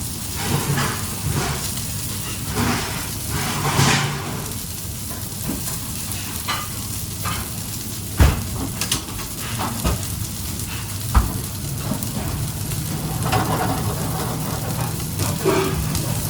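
Food sizzling as it fries in a pan, with a utensil stirring and scraping through it and two sharp knocks in the second half.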